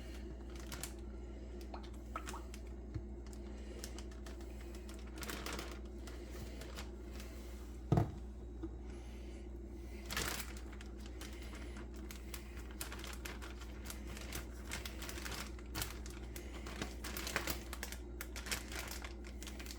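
Plastic bags crinkling and rustling while being handled, with scattered light clicks and a sharper knock about eight seconds in, over a steady low hum.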